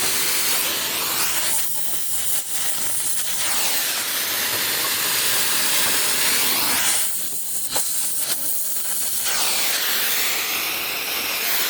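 A loud, steady hiss of rushing air or spray, easing briefly about two seconds in and again for a couple of seconds past the middle.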